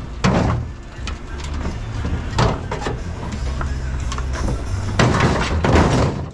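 Scrap metal clattering and scraping as it is handled: a knock just after the start, another about two and a half seconds in, and a louder rattling clatter near the end, over a steady low hum.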